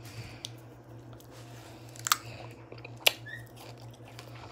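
A person biting into and chewing a strawberry close to the microphone: a few short, wet, crisp mouth clicks, over a steady low hum.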